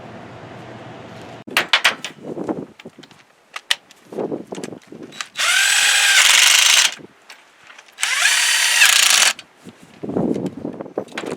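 Electric drill run in two bursts of about a second and a half each, its motor whining up to speed at the start of each. Scattered clinks and knocks of handled metal parts come before and after.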